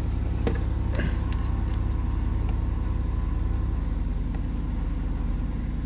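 The Dodge Grand Caravan's 3.3-litre V6 idling steadily, freshly filled with new oil just after the oil change. A few light clicks come in the first second and a half.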